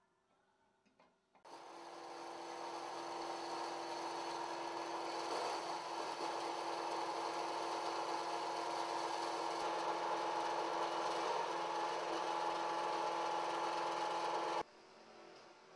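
BTM 71 51 ADS CNC 3000 saw running. It starts abruptly about a second and a half in, grows louder over the next couple of seconds, holds steady, and stops suddenly near the end, leaving a faint hum.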